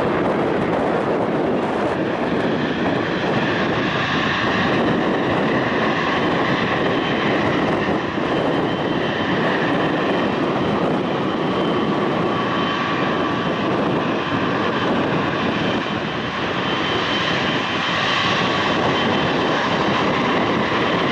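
Airliner engines running steadily, a loud even roar with a faint high whine over it.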